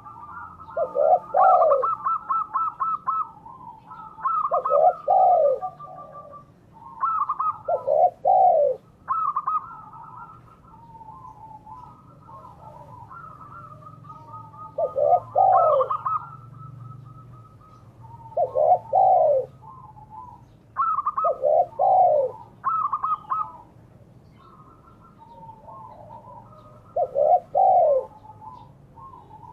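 Spotted doves (derkuku) and zebra doves (perkutut) cooing over and over. Low doubled coos come every few seconds, overlapping quick, higher trilled coo phrases.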